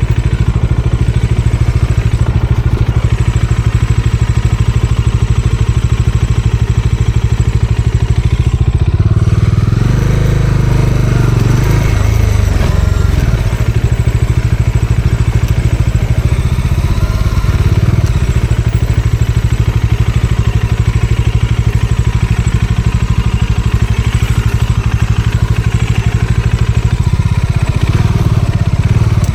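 Bajaj Dominar 400's single-cylinder engine running as the motorcycle rides along, with a rise and fall in engine speed about ten seconds in.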